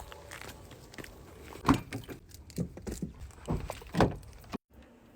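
A few dull thumps and knocks at irregular intervals over faint low background noise, with a brief dropout near the end.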